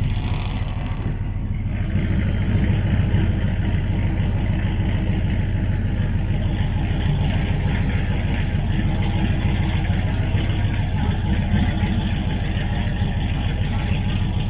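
Pickup truck's engine running steadily while driving, with road noise.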